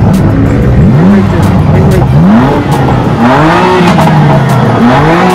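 BMW M4's twin-turbo straight-six being revved in several quick blips, each climbing in pitch and falling back to idle.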